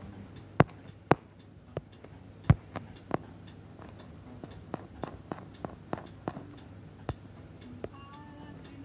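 Irregular sharp clicks and taps: a few loud ones in the first three seconds, then a run of lighter, quicker ones, over a low steady background hum.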